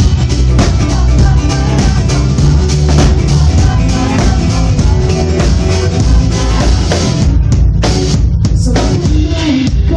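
Live rock band playing with a drum kit and guitar, a dense full mix that thins out sharply about seven seconds in, leaving sparser drum hits and sustained pitched lines.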